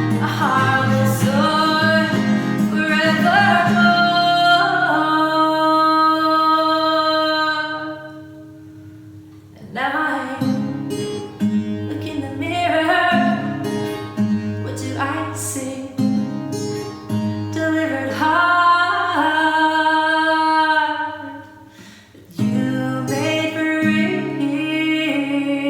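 A woman singing a slow song with acoustic guitar accompaniment, in long held phrases that pause twice.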